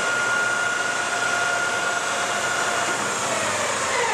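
Whacheon HL-460 engine lathe spindle and headstock gearing running at top speed, 1800 RPM: a steady mechanical drone with a high gear whine. Right at the end the whine starts to fall in pitch as the spindle begins to slow.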